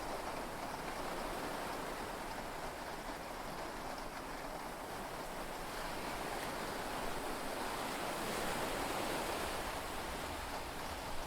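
Steady rush of heavy rain and sea waves heard from inside a yacht's cabin, swelling slightly about two-thirds of the way through.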